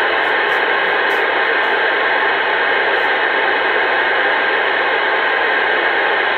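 CB radio receiver putting out a steady, loud static hiss on an open channel between transmissions, with no voice on it.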